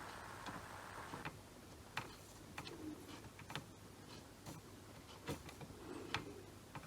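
Faint, irregular small clicks and taps of soldering-iron work on a circuit board as the chip's legs are touched up with solder, over a faint steady background hum.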